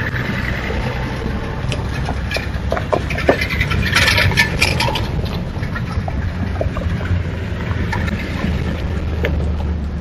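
A truck driving by on a logging road: its engine hums steadily and low, with a burst of clicks and crackles about four seconds in.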